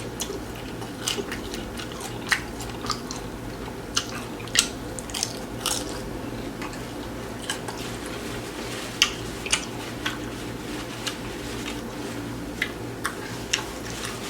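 Close-miked eating: a person biting and chewing tacos, with irregular wet mouth clicks and crunches, over a steady low hum.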